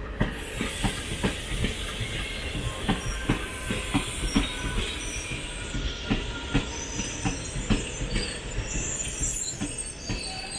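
The Jabalpur–Coimbatore special train's wheels clattering over rail joints in a steady run of knocks, with thin high wheel squeal joining about halfway through.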